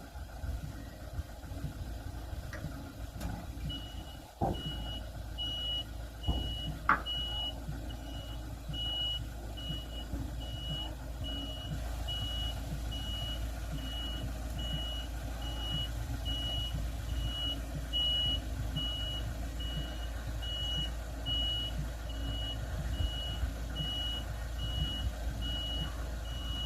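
A machine's reversing alarm beeping at an even pace over its engine running. A couple of knocks and a brief squeal come just before and as the beeping settles in.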